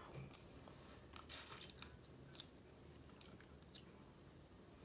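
Faint chewing of snow crab meat, with a scattering of soft, wet mouth clicks.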